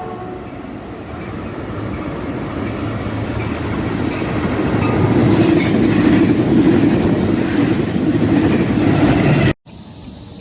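Diesel-hauled Caltrain passenger train approaching and passing, a rumble of engine and wheels on the rails that grows steadily louder. It is loudest over the last few seconds, then cuts off suddenly near the end.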